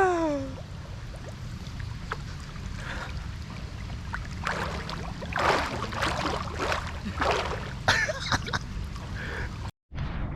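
Water splashing and sloshing in irregular surges from people swimming, over a steady low rumble; the sound cuts off suddenly near the end.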